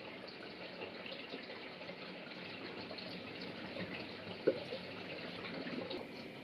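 Water running into a Panasonic NA-FA100H3 washing machine's tub as it fills, a steady rushing with small drips and ticks and one sharp click about four and a half seconds in.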